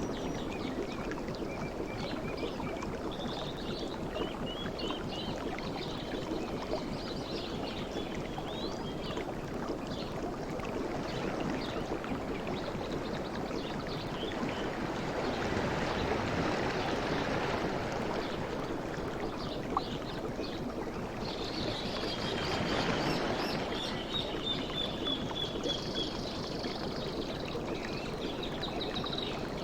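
Sea waves washing onto the shore, swelling and easing in slow surges, with faint chirping bird calls above the surf.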